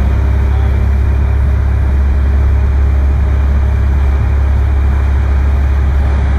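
Boat engine running steadily under way, a loud, even low drone.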